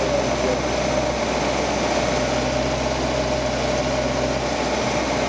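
1949 Buick Super's straight-eight engine idling steadily, freshly rebuilt and running rough.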